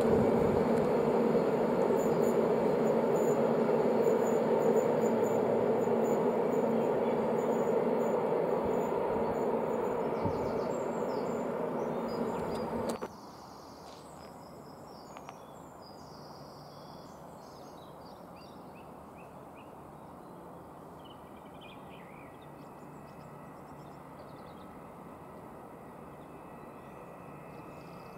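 Container freight wagons rolling along the track with a steady rumble, slowly fading, cut off abruptly about halfway through. Then a quiet background with faint bird chirps.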